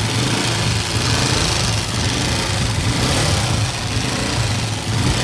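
Honda CG125 single-cylinder four-stroke engine idling steadily with a noisy mechanical clatter, the noise that the mechanic traces to the tappets and cures by adjusting tappet clearance.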